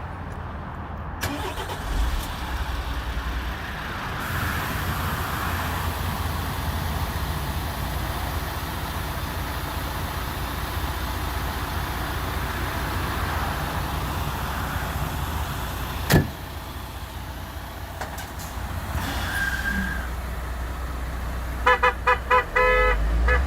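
Semi-truck tractor unit's engine running steadily, with a single sharp knock about two-thirds through and four short horn toots near the end.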